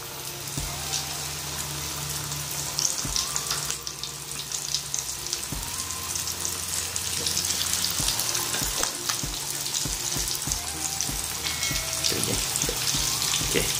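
Flour-coated chicken pieces deep-frying in hot oil in a wok over medium heat: a steady crackling sizzle full of small pops.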